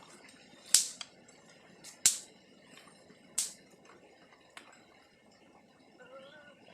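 Three sharp snaps or knocks about a second and a half apart, the first two the loudest, with a few fainter ticks between them.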